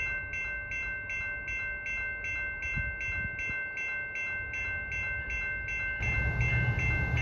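Railroad crossing signal bell ringing steadily at about three strikes a second: the crossing is activated for an approaching train. A low rumble swells in about six seconds in.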